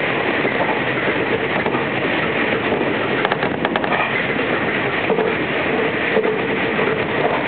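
Running noise of an electric commuter express train at speed, heard from inside the car: a steady rumble of wheels on rail, with a quick run of clicks a little over three seconds in.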